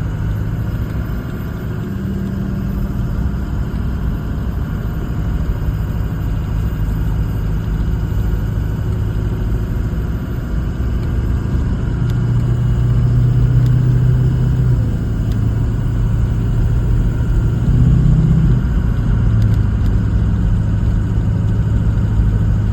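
Ranger truck driving, its engine humming steadily over road noise; about halfway through the engine note steps up and gets louder as the truck speeds up.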